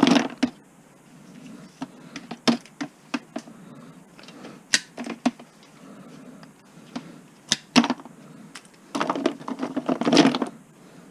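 Irregular sharp clicks and snips of scrap copper wire being cut and stripped by hand, with a longer scraping stretch about nine seconds in.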